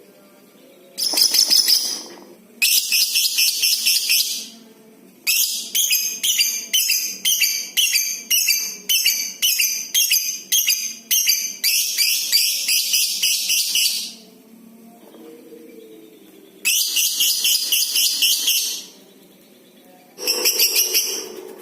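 Lovebird giving its long, rapid chattering trill (ngekek), high-pitched and stuttering. It comes in several bursts of a second or two, with one unbroken run of about nine seconds in the middle.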